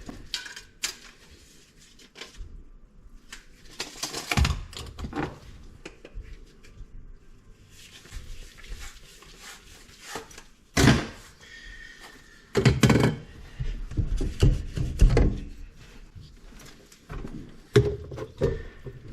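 Irregular knocks, clunks and clatter of hand work on drain pipe and fittings, with rustling in between and a cluster of heavier knocks about two-thirds of the way through.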